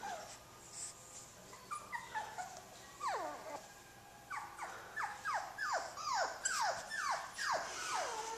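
Maltipoo puppy whining and yipping: short high-pitched whimpers that each fall in pitch, a few at first, then a quick run of about three a second over the last few seconds.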